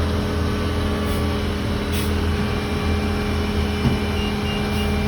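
Large vehicle's engine idling with a steady low hum. Three faint short high beeps come about four seconds in.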